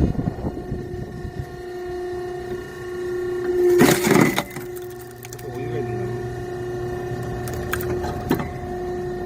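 Hydraulic log splitter running with its 5 hp single-phase electric motor and pump giving a steady hum. About four seconds in comes a loud crack of a log splitting, and a couple of short knocks follow near the end.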